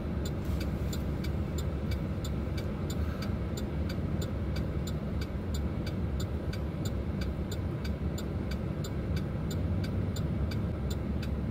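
Inside a Chevrolet Silverado pickup's cab: steady low engine and road rumble, with a turn signal ticking evenly a couple of times a second.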